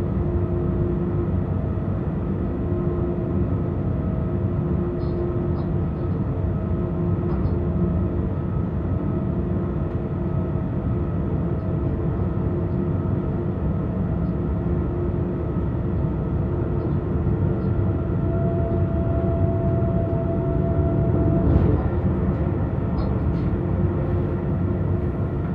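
Inside the cab of a BR 186 electric locomotive running at speed: a steady rumble of the running gear on the rails, with steady hums on top. A higher hum joins for a few seconds in the second half, and a brief louder rush comes near the end.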